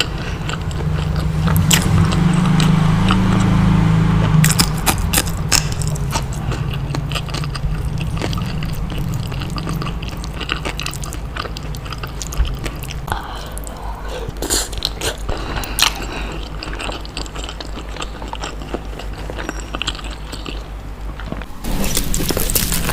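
Close-miked eating of balado eggs in chili sauce: biting and chewing with wet, sticky mouth clicks, many small crackles throughout. A low rumble sits under it, loudest in the first four seconds.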